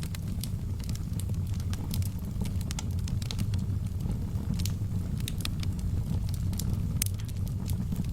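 Wood logs burning in a fireplace: frequent, irregular sharp crackles and pops over a steady low rumble.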